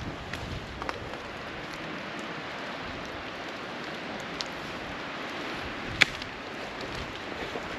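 Steady rain falling in woodland, with scattered drops tapping close by and one sharper tap about six seconds in.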